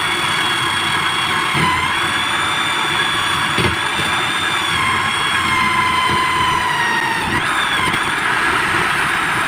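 Electric drill motor driving a homemade grater drum: a steady whine with a rough, noisy undertone. Its pitch wavers, sagging a little about one and a half seconds in and again around seven seconds.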